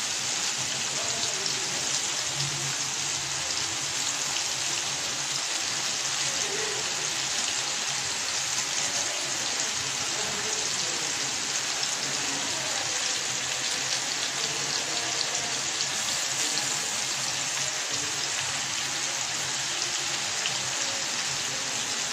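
Boneless chicken in masala frying on a hot tawa (flat iron griddle): steady sizzling with fine crackles.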